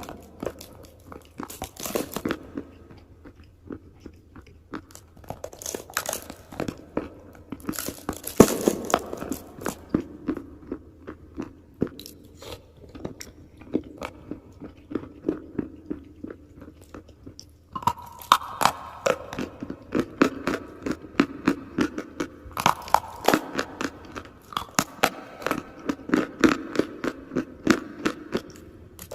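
Close-miked mouth biting into and chewing dry, crunchy edible chalk and clay pieces: dense sharp crunches, with several louder bites spread through and steadier chewing crunches between them.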